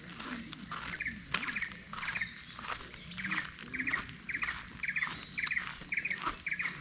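Birdsong at a rural campsite: a short trilled call repeated about twice a second, with scattered light clicks.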